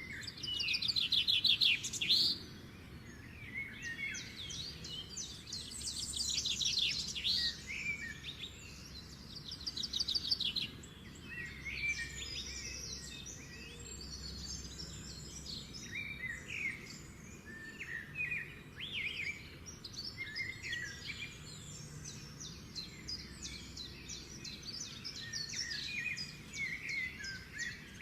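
Several birds chirping and singing together, with fast trills near the start, around six seconds in and around ten seconds in, and shorter chirps going on throughout over a faint low background noise.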